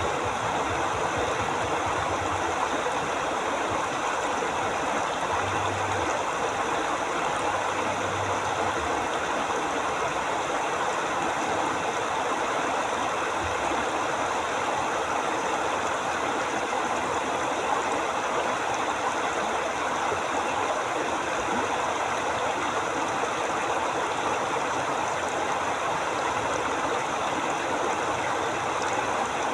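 Forest river flowing steadily: a continuous, even rush of running water.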